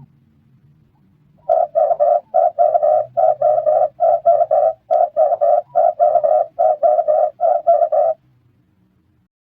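Red turtle dove cooing: a rapid, even run of short low coos, about three to four a second, starting about a second and a half in and stopping after about six and a half seconds.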